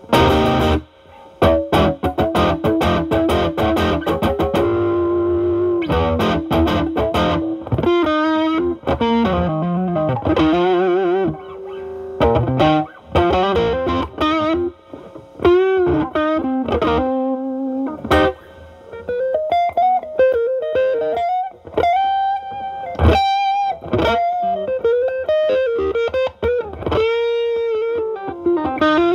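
Electric guitar (Stratocaster) through a Ceriatone Centura overdrive, a Klon Centaur clone, into a Marshall Valvestate amp's drive channel. It opens with quick rhythmic chord strokes, then moves in the second half to single-note lead lines with string bends and vibrato.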